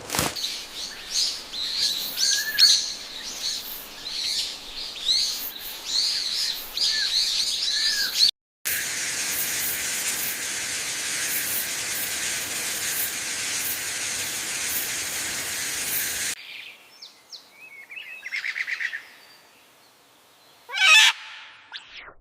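Many small birds chirping, quick curved calls over one another. About halfway through they give way to a steady high hiss with faint chirps, which cuts off suddenly and leaves a few scattered short sounds, the loudest a brief sweep near the end.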